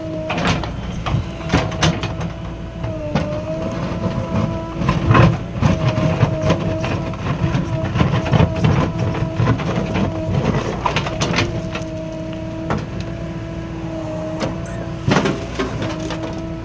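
JCB 3DX backhoe loader's diesel engine running under working load, with a steady whine that dips briefly every few seconds. Frequent clanks and knocks run over it.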